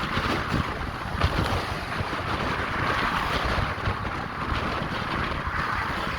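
Steady wind noise rushing and buffeting over an action camera's microphone while cycling.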